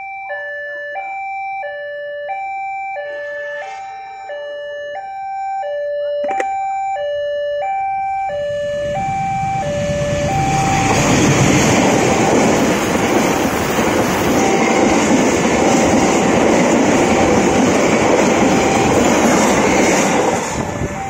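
Level-crossing alarm sounding a two-tone electronic chime, the two notes alternating about every half second. From about 8 s in, a diesel locomotive and its passenger carriages approach and pass close by with loud rumble and wheel-on-rail noise that buries the chime, easing off near the end as the train moves away.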